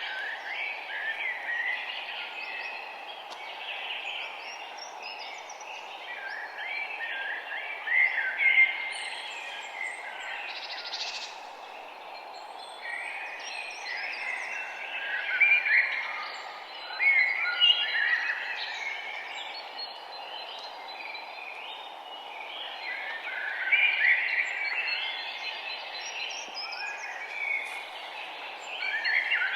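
Chorus of several songbirds chirping and singing in short, overlapping phrases, over a steady background hiss.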